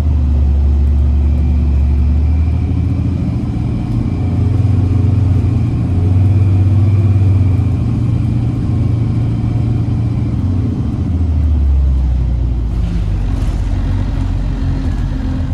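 Orion VII NG hybrid bus under way, heard from inside: the low rumble of its Cummins ISB diesel and drivetrain, swelling and easing with speed. A faint steady high whine runs through the middle, and a whine falls in pitch near the end.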